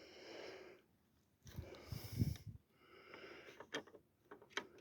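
Quiet breathing and sniffing close to the microphone, with a few soft low thuds about two seconds in and faint clicks near the end.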